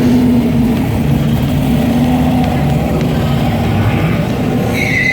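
Car engine running steadily at idle, a deep continuous rumble close by. A brief high tone sounds near the end.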